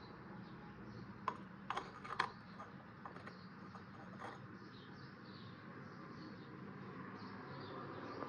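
A few sharp clicks and clinks of kitchenware being handled, bunched in the first half, over a steady low hum; faint high chirps come in the second half.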